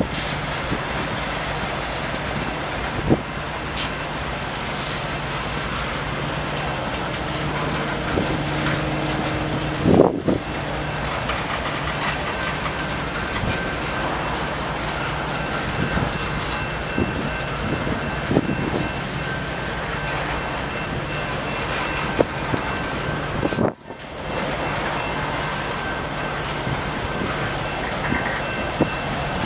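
Loaded freight hopper cars rolling past: a steady rumble of steel wheels on rail, with a few sharp knocks and clanks, the loudest about ten seconds in.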